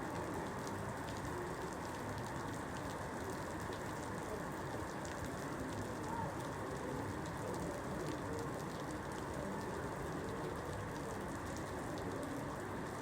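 Steady rain falling on a surface, an even patter with scattered individual drops ticking through it.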